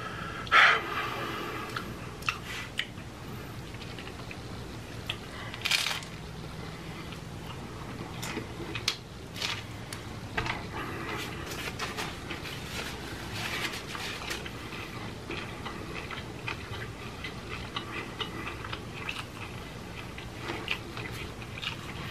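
Close-miked chewing and crunching of hard-shell tacos, with irregular sharp crunches throughout; the loudest come about half a second in and near six seconds.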